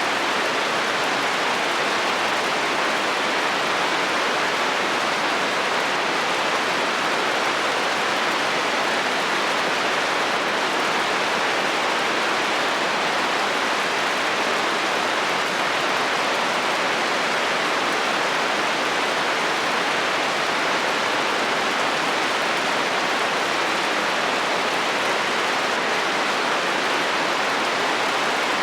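Heavy rain falling on a metal roof, a steady, even hiss.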